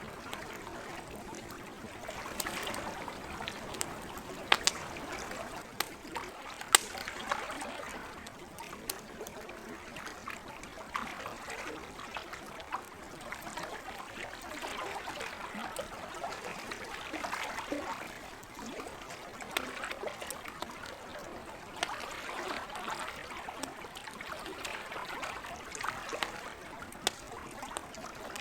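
Lake water lapping and trickling at the shore in slow swells, with a campfire crackling over it in scattered sharp pops; the loudest pops come a few seconds in.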